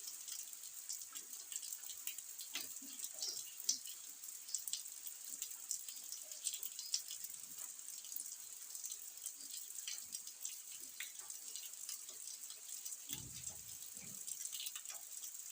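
Rain falling steadily, a high hiss with many irregular drops ticking and splashing. A brief low rumble comes near the end.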